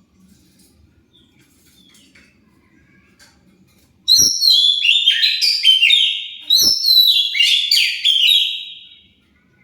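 Oriental magpie-robin (kacer) singing a fast, loud run of varied, stepped whistled notes, starting about four seconds in. The song comes in two stretches with a brief break in the middle, after a few seconds of only a faint low hum.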